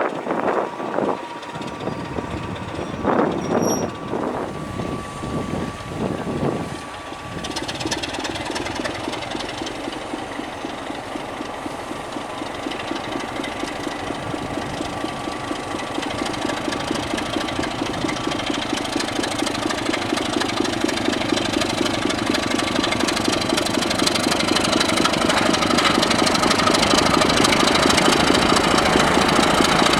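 Diesel train engine running with a knocking beat, growing steadily louder over the last twenty-odd seconds as it draws closer.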